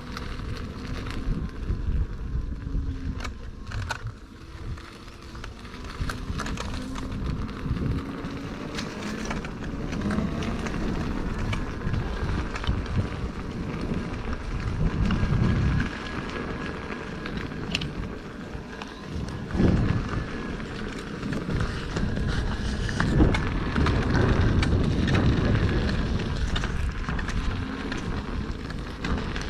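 Wind rumbling on the microphone while riding an electric unicycle, with the faint whine of its hub motor sliding up and down in pitch as speed changes.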